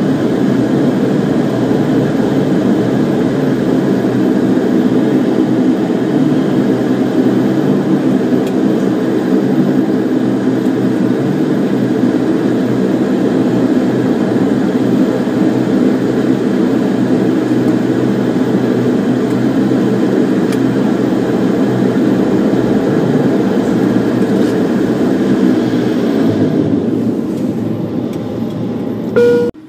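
Bombardier Dash 8 turboprop engines and propellers droning steadily, heard inside the passenger cabin, with several held propeller tones. The drone eases a little near the end, then cuts off abruptly.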